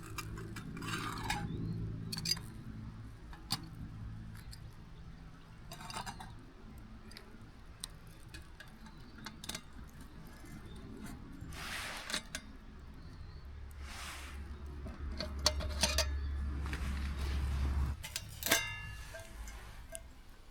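Scattered light clinks and rustling of camp cookware and utensils being handled, over a low steady hum. The sharpest clicks come in a cluster near the end.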